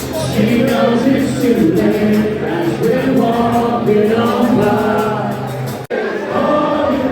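A crowd of cricket fans singing together in the stands, many voices holding and stepping between notes, broken by a sudden brief dropout about six seconds in.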